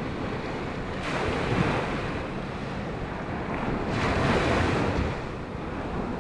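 Sea surf breaking on the beach, with wind buffeting the microphone. The wash swells twice, about a second in and again around four seconds.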